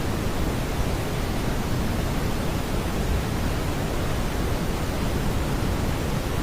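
Synthesized smoothed brown noise: a steady, even rushing noise weighted toward the low end, with no tones or beats in it.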